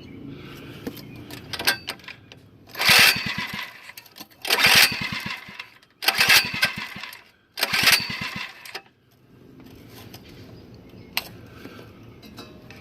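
Mini bike's small single-cylinder engine being pull-started four times in a row: each pull is about a second of the engine turning over in quick pulses, and it does not keep running. It is a hard-starting engine. A few sharp clicks come before and after the pulls.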